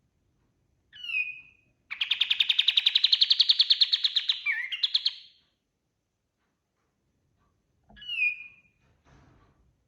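Kapas tembak songbird singing: a short down-slurred call, then a loud, rapid trill of about thirteen notes a second lasting some three seconds. The short down-slurred call comes again near the end.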